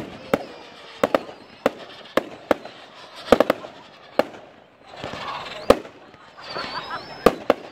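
Fireworks going off: a rapid, irregular run of sharp bangs, with stretches of hissing crackle about halfway through and a faint high whistle.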